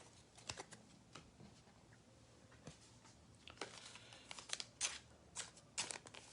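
Trading cards and packs being handled: faint, scattered rustles and light clicks, coming more often from about three and a half seconds in, with near silence between them.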